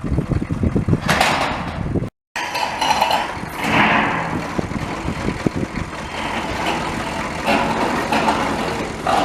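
Strong gusting wind buffeting the microphone in a dust storm, a rumbling rush that swells and eases.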